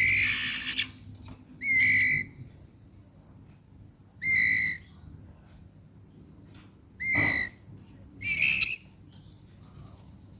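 White-rumped shama (murai batu) giving five short, squawking calls spaced a second or more apart.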